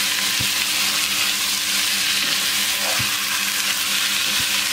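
Marinated chicken pieces sizzling steadily in hot coconut oil in a nonstick pot while a wooden spatula stirs them, with a few light knocks of the spatula against the pan.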